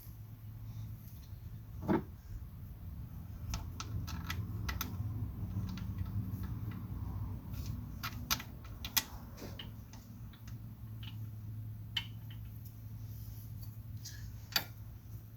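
Scattered light clicks and knocks of hand tools and parts being handled while the hydraulic screen cover is worked back into place with a breaker bar, over a steady low hum.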